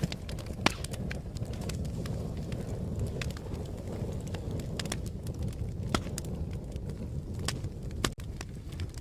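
Wood fire crackling: a steady low rumble of flames with scattered sharp pops and snaps. The loudest come just before a second in, near six seconds and just after eight seconds, where the sound briefly cuts out.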